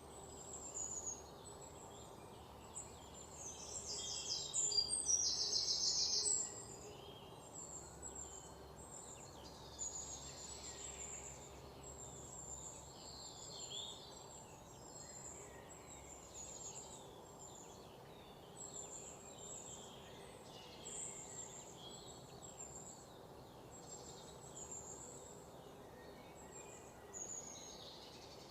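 Small songbirds chirping and singing in a chorus of short, high calls repeated throughout. There is a louder buzzy trill about four to six seconds in.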